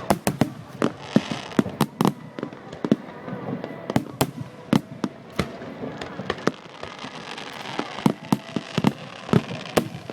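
Fireworks going off: a steady run of sharp bangs at irregular intervals, sometimes several a second, some followed by a brief echo.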